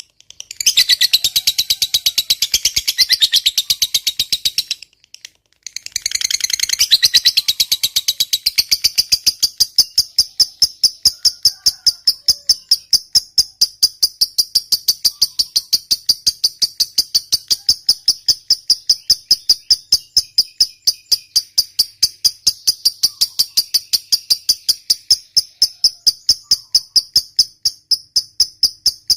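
Lovebird giving its long 'ngekek' chattering trill: a rapid, high-pitched chatter that breaks off twice in the first few seconds, then settles into a long, steady, evenly pulsing run of about three pulses a second.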